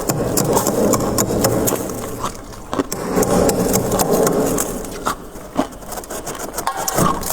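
Soft freezer frost crunching close to the microphone: two long stretches of dense grinding crunch, with many sharp crackles throughout.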